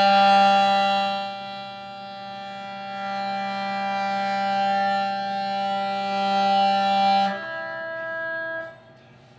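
Ship's horn sounding one long steady blast for about seven seconds, marking the first hoisting of the commissioning pennants and ensign. A quieter horn tone of a different pitch carries on briefly after it cuts off.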